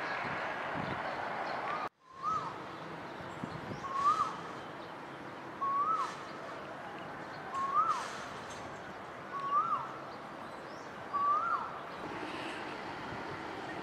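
A bird repeating one short whistled call, rising then dropping sharply, about every two seconds, over steady background noise. The sound drops out briefly about two seconds in.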